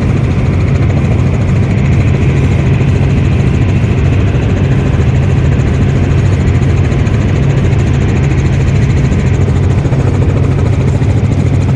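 Helicopter running with a loud, steady, deep drone of engine and rotor.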